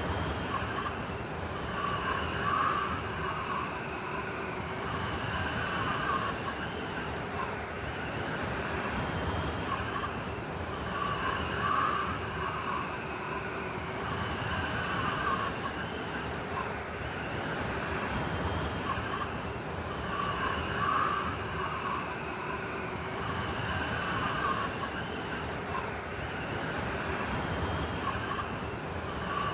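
Blizzard wind blowing steadily with a howling, whistling tone that swells in gusts about every nine seconds.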